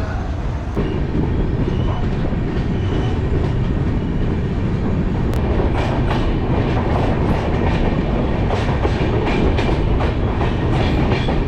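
Saraighat Express passenger train running on the line: a steady rumble from the coach, with the wheels clacking over rail joints. The clacks come thick and fast in the second half.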